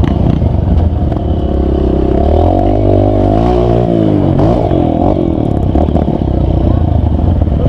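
Off-road vehicle engine running hard on a muddy trail, its pitch swinging up and down through the middle as it is revved.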